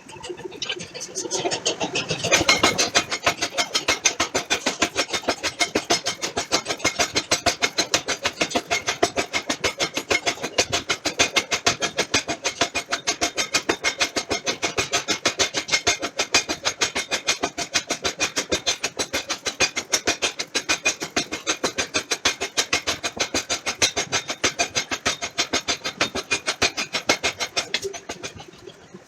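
Forging power hammer pounding a hot steel billet in a fast, steady run of blows, several a second, that builds up over the first two seconds.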